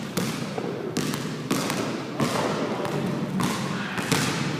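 Basketballs bouncing on a hard court floor: about half a dozen irregular thuds over the general noise of a busy hall.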